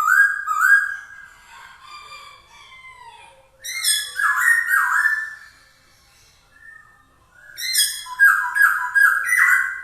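Black-throated laughingthrush (poksay Hongkong) singing loud, whistled phrases with rich overtones, in bursts with a short pause in the middle. Near the end comes a run of about five quick repeated notes.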